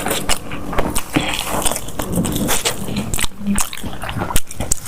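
Close-miked mukbang eating: loud chewing with many irregular sharp clicks.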